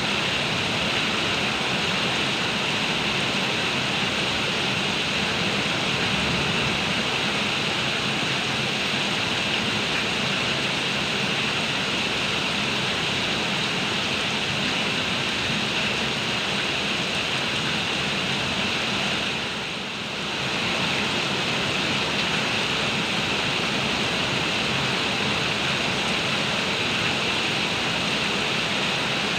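Heavy rain pouring down in a steady, dense hiss, with a brief dip in loudness about two-thirds of the way through.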